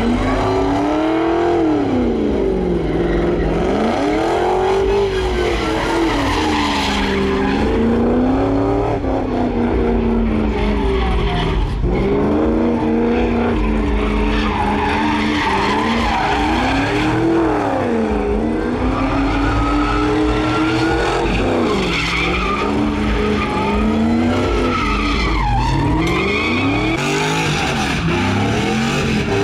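A truck doing a burnout: its engine revs up and down every few seconds while the spinning tyres squeal on the pavement.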